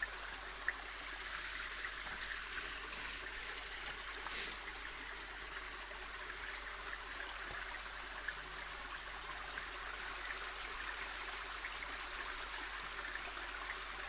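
Creek water running steadily, a constant rushing hiss.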